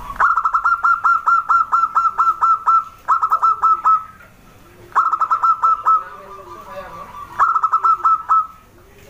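Zebra dove (perkutut) singing: four runs of rapid, clipped cooing notes at about five a second. The first run is the longest, about a dozen notes, and short pauses separate the runs.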